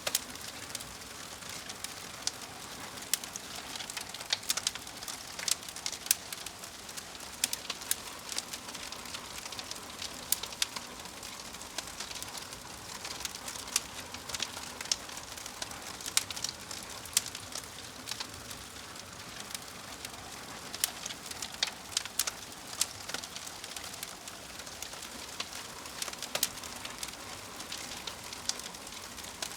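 Wood fire burning: a steady soft hiss with frequent, irregular sharp crackles and pops.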